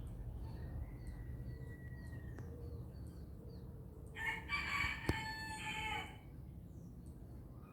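A rooster crowing once, a call of about two seconds a little past the middle, with a sharp click partway through it. Faint small-bird chirps and a thin held high note come before it, over a low steady rumble.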